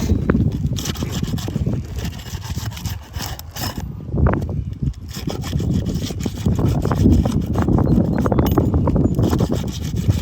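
Irregular rough scraping and rubbing over asphalt roof shingles, with scattered clicks.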